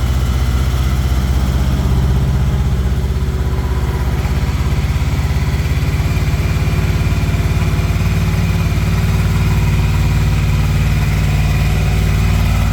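Honda VFR800's V4 engine idling steadily just after a cold start, having not been run for a while.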